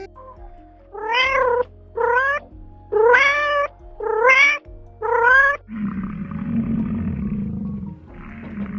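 Domestic cat meowing five times in quick succession, each meow rising then falling in pitch. Then a low, rough animal call comes twice, the second starting near the end, over faint background music.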